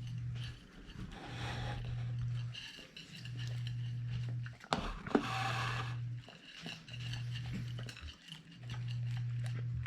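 Siberian husky eating grilled mackerel, with small clicks of chewing and handling. A low hum comes and goes about every second and a half.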